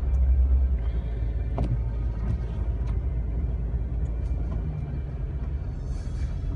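Low, steady rumble of a Jeep Wrangler TJ driving on a snow-covered road, heard from inside the cab, strongest in about the first second. A single sharp click sounds about one and a half seconds in.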